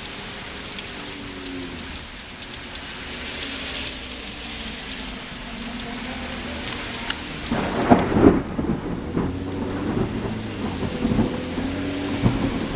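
Heavy rain pouring steadily, with the patter of drops hitting close by. About seven to eight seconds in, a louder low rumble of thunder breaks in and carries on in uneven bursts.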